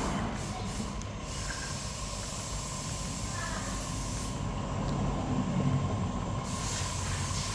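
High-pressure washer spraying vehicles at a car wash: a steady hiss of water spray with a faint, even whine underneath. The hiss thins out briefly about two-thirds of the way through.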